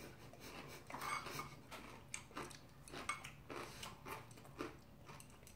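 People chewing mouthfuls of bibimbap close to the microphone: soft, irregular chewing and wet mouth clicks, with light taps of chopsticks against the bowls.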